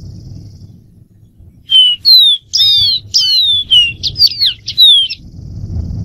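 Dark-throated seedeater singing: a run of quick, clear whistled notes, most of them slurring downward, starting a little under two seconds in and lasting about three and a half seconds.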